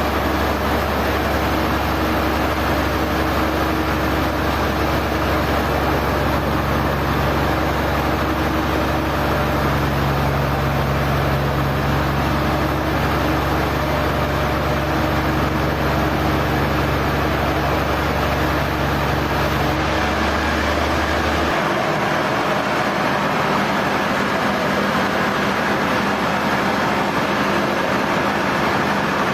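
Sawmill machinery running steadily: a loud, even mechanical noise with a low hum that drops out about twenty seconds in.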